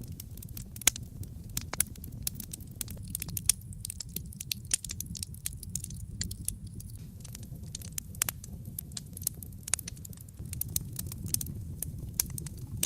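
Wood fire burning in a fireplace: irregular sharp crackles and pops over a steady low rumble of flame, with one louder pop about a second in.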